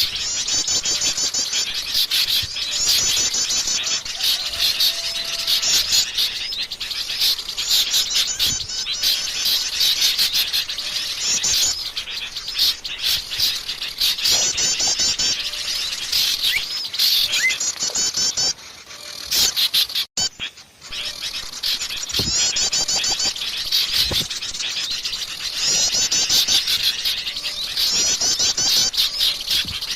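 Bird-lure recording of a noisy chorus of small birds, agitated sooty-headed bulbuls mixed with other small songbirds, all chirping and calling at once. Rapid high trill phrases repeat every couple of seconds. The sound falls away briefly about two-thirds of the way through.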